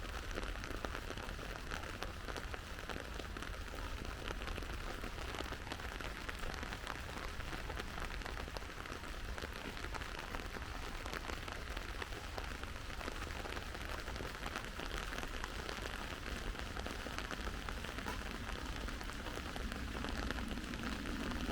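Steady rain falling, an even hiss of many small drops pattering on surfaces. A low hum joins faintly near the end.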